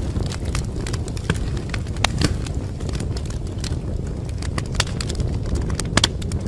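Wood fire burning in a fireplace: a steady low rumble of flames with irregular sharp crackles and pops, the loudest a close pair about six seconds in.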